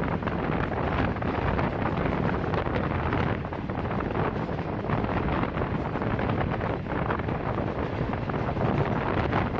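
Steady rumble of a moving passenger train, with wind buffeting the microphone.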